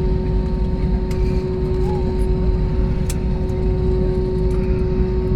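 Airbus A321neo cabin noise on the ground: a steady low rumble with a constant hum over it and a few faint clicks.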